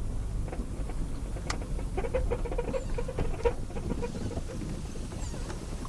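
Car interior while driving: a steady low road and engine rumble, with irregular small clicks, ticks and scratchy rattles over it.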